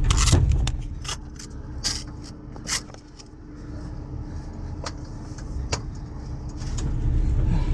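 Short metallic clinks and taps of hand tools on a truck's underside, about one a second, over the low rumble of a vehicle engine running, which fades down in the middle and swells again near the end.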